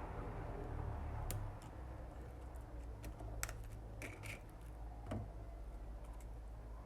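Scattered small sharp clicks and taps, some six or seven irregularly spaced, of tools and plastic or metal parts handled while a Samsung Galaxy A03 phone is taken apart, over a steady low hum.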